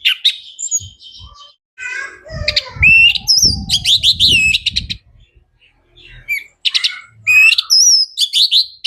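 Orange-headed thrush (anis merah) singing a loud, varied song of rapid whistled and gliding notes in bursts, broken by short pauses.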